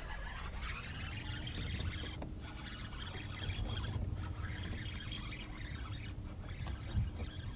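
Spinning reel being cranked, its rasping whir steady over a low rumble while a fish is reeled in.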